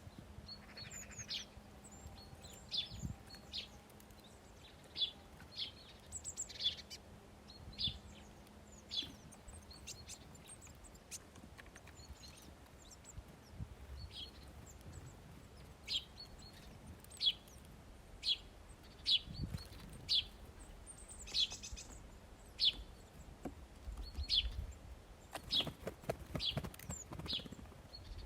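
Small songbirds chirping at a feeder: short, high single chirps repeated every second or so, with a brief flurry of rustling near the end.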